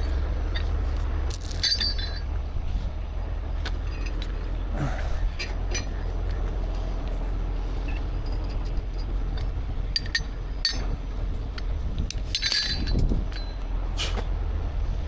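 Steel recovery chain and Omega Link connectors clinking and rattling as they are handled and hooked up, in scattered clinks with a couple of ringing metallic jingles, over a steady low rumble.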